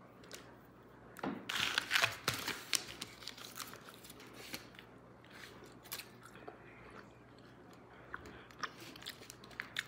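A mouthful of Big League Chew shredded bubble gum being chewed close to the microphone: a burst of chewing clicks about a second in, loudest for a couple of seconds, then fainter scattered chewing sounds.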